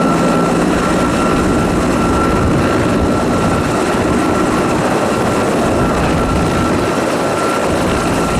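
Firefighting helicopter running close by: steady, loud rotor and turbine noise with a thin, steady whine above it.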